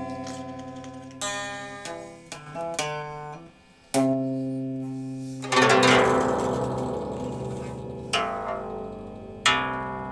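Instrumental music played on a plucked string instrument: single plucked notes and chords that ring out and die away. There is a short pause about three and a half seconds in, and a loud chord rings out near the middle.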